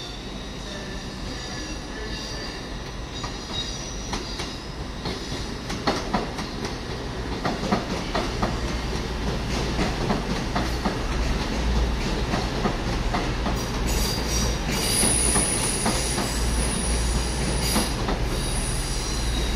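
CrossCountry Voyager diesel train passing close by. Its engine drone grows louder as it nears, with the wheels clicking over rail joints. High-pitched wheel squeal sets in from about two-thirds of the way through.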